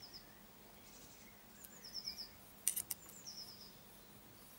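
A small bird chirping faintly three times, each a quick falling run of high notes, and two light metallic clicks about two and a half seconds in from the steel feeler-gauge blades being handled.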